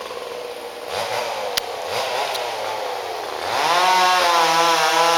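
Chainsaw cutting through a large balsam fir on the felling back cut, its engine pitch wavering under load. About three and a half seconds in it revs up and gets much louder.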